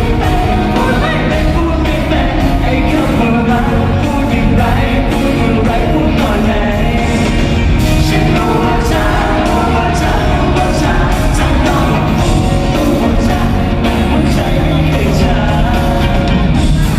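Live pop-rock band with singing over a steady drum beat, loud and continuous.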